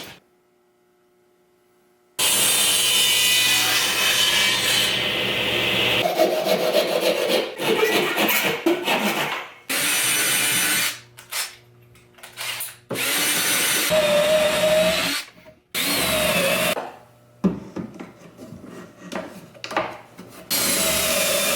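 A power tool working wood, starting about two seconds in. It runs for several seconds, then stops and starts again several times with short gaps, its pitch wavering under load in the later stretches.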